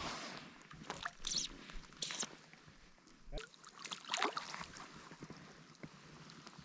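Faint water movement, with two short swishes and a few light knocks.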